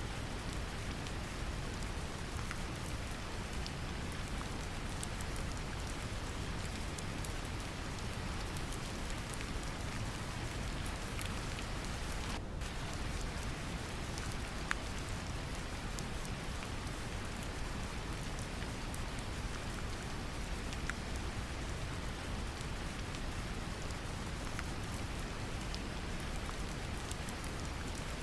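Steady brown noise, a deep even hiss, mixed with gentle rain and scattered ticks of single drops.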